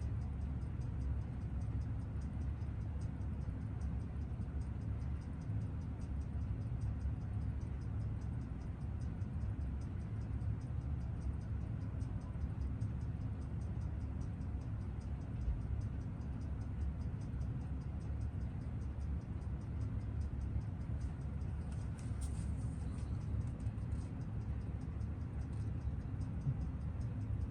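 Seiko 6139 automatic chronograph movement ticking evenly on a timegrapher with its chronograph running, a fast, regular run of faint ticks of about six beats a second. A steady low hum sits underneath.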